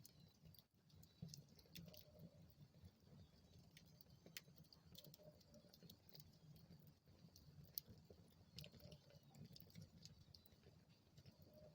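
Wood fire burning in a fireplace, faint, with irregular sharp crackles and pops over a soft low rumble.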